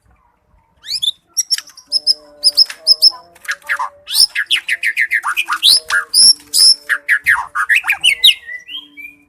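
White-rumped shama (murai batu) singing a fast, varied song: rapid runs of repeated sweeping notes and high whistles, starting about a second in and stopping shortly before the end.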